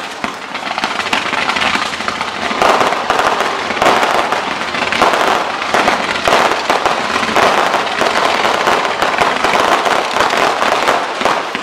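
Fireworks display: a dense, unbroken run of crackling and popping bangs as fireworks go off close together, a little louder from about two and a half seconds in.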